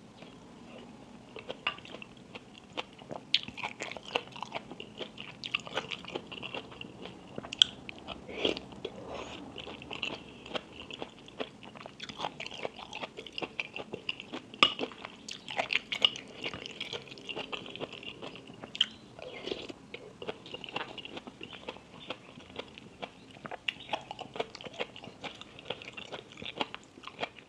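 Close-miked chewing and biting of food, with many irregular sharp crunches and crackles.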